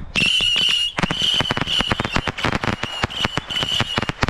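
Two lit fireworks going off: a steady high-pitched whistle, breaking off and resuming several times, over a rapid series of sharp cracks and pops that thickens about a second in.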